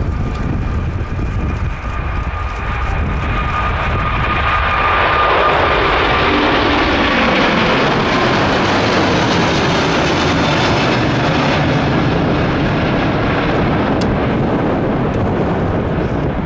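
Four-engine Airbus A380 jet airliner's engines running loud as it passes. A high whine slowly falls in pitch and fades over the first half, while a broad jet roar swells about four seconds in and holds strong.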